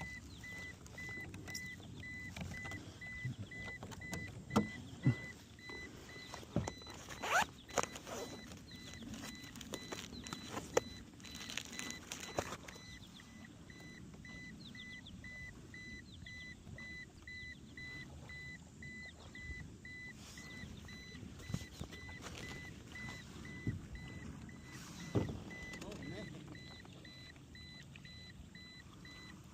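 Scattered knocks, clicks and rustles of gear being handled on a fishing kayak, over a faint electronic beep that repeats about twice a second.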